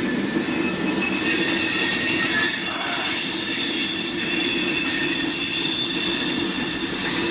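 Freight train rolling past with its wheels squealing on the rail: several high, steady squealing tones set in about a second in and hold over a continuous low rumble.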